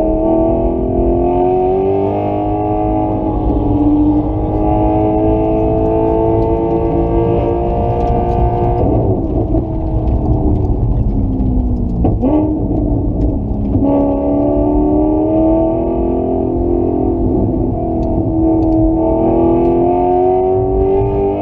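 An engine under sustained hard acceleration, its pitch climbing steadily for about eight seconds, then falling away as it slows around the middle, with a sharp click, before climbing again for the rest of the time.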